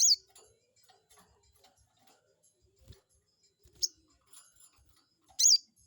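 A sogon bird (crested jay) giving short, sharp, high-pitched calls: one at the start, one about four seconds in and a louder one near the end, with faint ticking between them. This is a lure call meant to provoke a rival sogon into answering.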